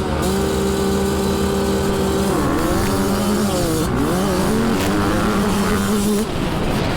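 Dirt bike engine running at high revs with a steady pitch, the revs dipping and climbing midway, then holding steady again before dropping off about six seconds in.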